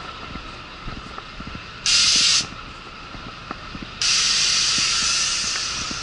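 Compressed air hissing from an articulated truck's air brake system: a short sharp hiss about two seconds in, then a longer hiss from about four seconds in that slowly dies away, as the brakes are applied and released. Underneath, the diesel engine idles.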